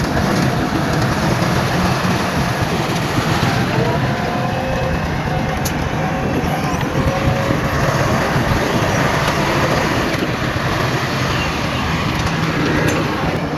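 Heavy diesel earthmoving machinery running steadily under load, with a faint wavering whine in the middle.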